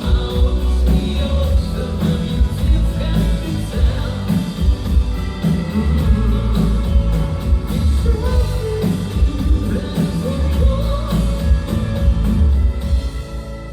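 A live rock band playing with singing over drums, bass and guitars; about a second before the end the band drops back to a quieter passage.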